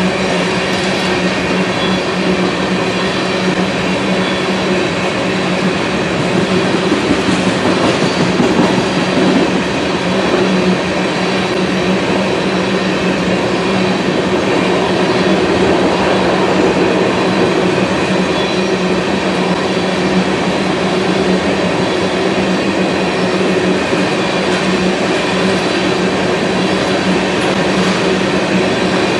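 Tank cars of a freight unit train rolling past: steady, loud running noise of steel wheels on the rails.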